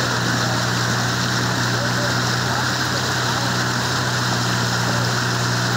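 A motor drones steadily under a constant wash of rushing water.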